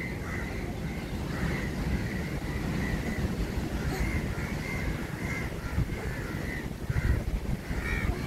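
Birds calling over and over in short, repeated calls, about two a second, over a steady low rumble.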